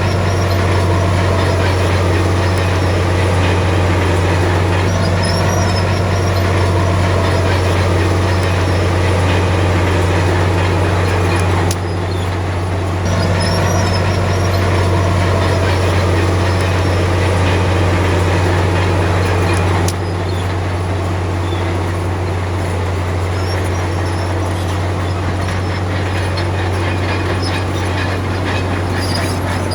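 Heavy diesel earthmoving machinery running under load, a loud low drone with engine pitch drifting up and down. The sound changes abruptly about twelve and twenty seconds in.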